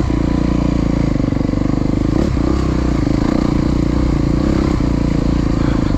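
Dirt bike engine running at low, steady revs, with a couple of sharp knocks about two and five seconds in.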